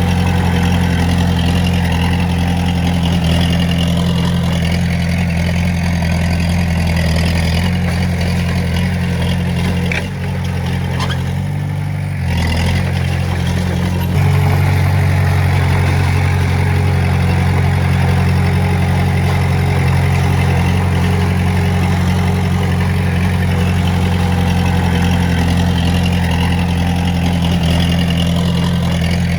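Diesel engine of heavy earth-moving equipment running steadily. About ten seconds in it drops in pitch and level for a couple of seconds, then picks up again louder.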